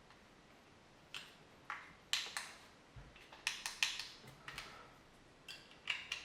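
Faint, irregular light clicks and taps of small hard objects being handled, about a dozen of them, some in quick clusters.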